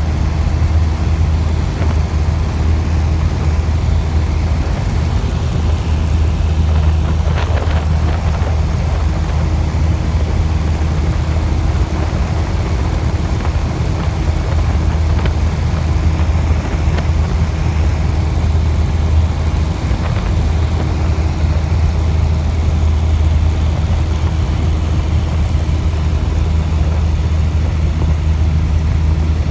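Steady, loud drone of a light aircraft's engine and propeller heard from inside the cabin during a low pass, with a deep constant hum and a few faint ticks.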